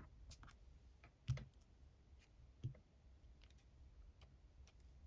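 Faint clicks and taps of a stamp being handled on a stamping block, with a louder knock about a second in and a softer one a second and a half later.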